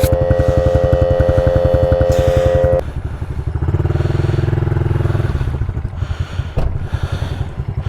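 Pit bike engines idling with an even pulse, under a steady high whine from an air compressor filling a flat tire that cuts off suddenly about three seconds in. The idling engine swells briefly in the middle.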